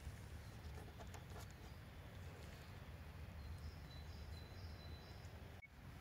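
Faint outdoor ambience: a steady low rumble, a few soft clicks about a second in, and a bird calling a short run of thin high notes in the middle.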